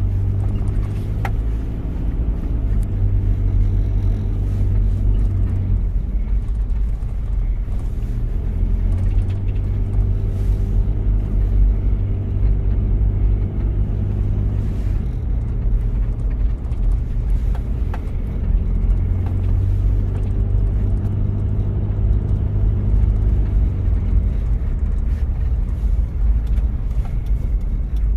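1993 Toyota Prado diesel engine running while the vehicle is driven. The engine note rises and falls several times as the revs change.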